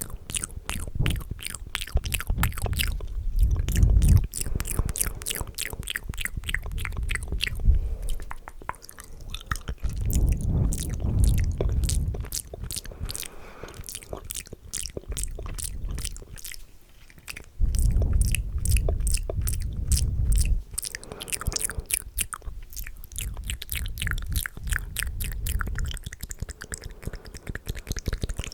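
Close-miked ASMR mouth sounds: fast, wet clicks and smacks in dense rapid runs, with a few stretches of low thudding mixed in.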